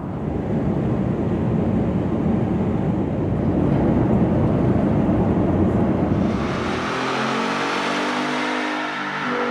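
Nissan Titan 5.6-litre V8 running through a Flowmaster FlowFX stainless steel exhaust: a loud, low, rough exhaust rumble that changes about six seconds in to a smoother engine tone with clear steady pitches and less deep bass.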